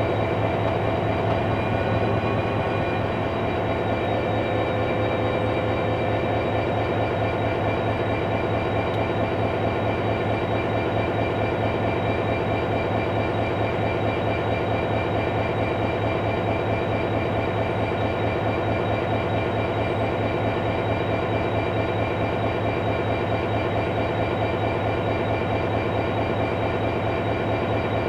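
A CIE 071 class diesel locomotive's EMD twelve-cylinder two-stroke engine running steadily: a low, even throb with a steady high whine over it.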